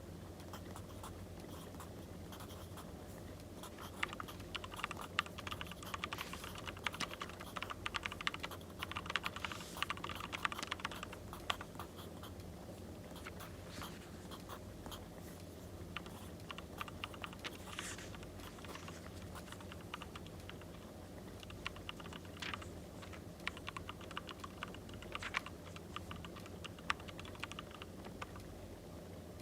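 Pen writing on paper: bursts of rapid light clicks and scratches, in two stretches, over a steady low background.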